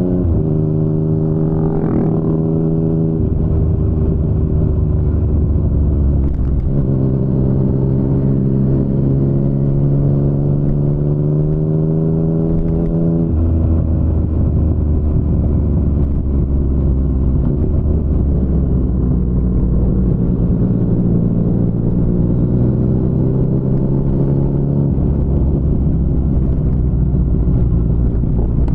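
Yamaha MT-09's inline three-cylinder engine running through an Akrapovic full-system exhaust while riding. The engine note holds fairly steady, then steps up or down in pitch several times as the rider changes gear and works the throttle.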